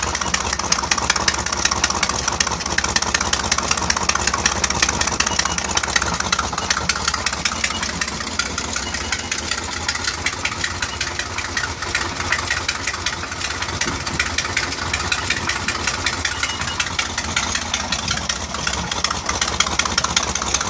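MerCruiser 4.3L V6 marine engine idling steadily with a fast, regular ticking knock riding on the engine note, a noise the owner is trying to pin down as either rod knock or a leaking exhaust gasket.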